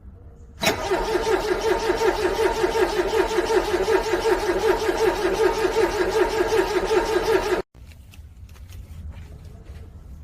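Car engine being cranked over by its starter motor in the cold, with a rapid even rhythm. It does not catch and cuts off abruptly after about seven seconds: a cold engine struggling to start.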